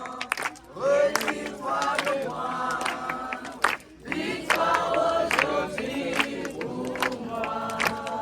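A group of voices singing a worship chorus together, with hand claps running through the singing.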